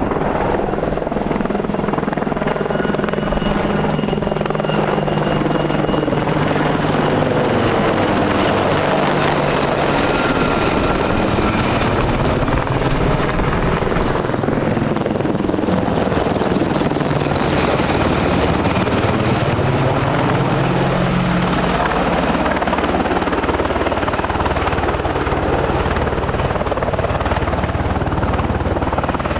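Military helicopter rotors and turbine engines running loudly and steadily, with faint tones sliding up and down as the helicopter moves.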